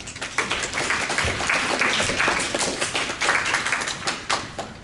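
An audience applauding, many people clapping together; the applause dies away near the end.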